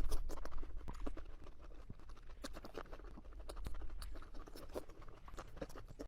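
Close-miked chewing and crunching of food, a dense, irregular run of crisp clicks and crackles.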